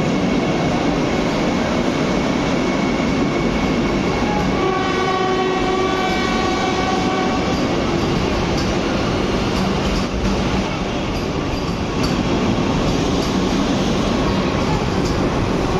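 Vande Bharat Express train running, a steady loud rumble, with its horn sounding for about three seconds starting around five seconds in.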